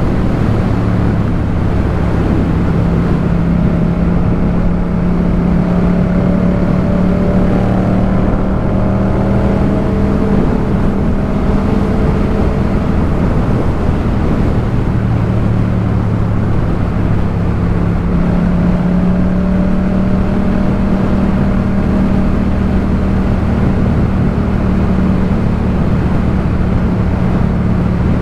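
Yamaha MT-07's parallel-twin engine through a Jeskap K4 full exhaust, running under way at a fairly steady engine speed, its note shifting slightly in pitch a few times.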